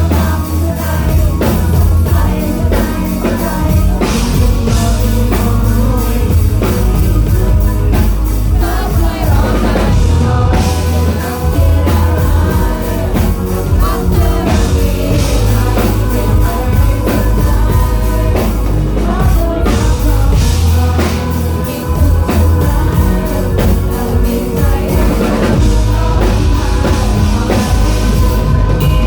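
Live rock band playing with a singer, drum kit and guitars, loud and heavy in the bass, as heard from the audience.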